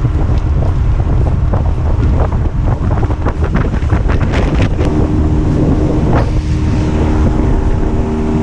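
Wind buffeting the microphone over a small boat under way, with many short slaps and knocks in the first half. From about halfway through, the steady hum of the Honda 8 hp four-stroke outboard comes through clearly.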